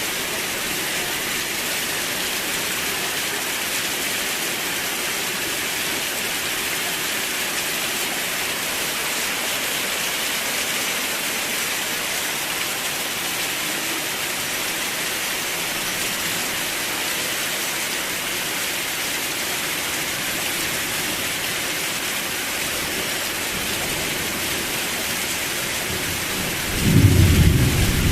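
Steady rain falling, with a low rumble of thunder breaking in about a second before the end.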